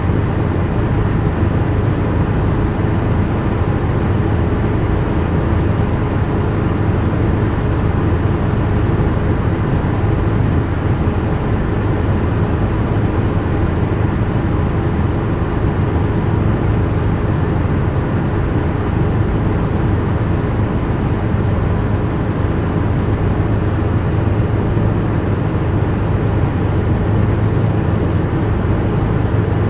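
Helicopter heard from inside the cabin: a steady, unbroken low drone and hum of engine and rotor.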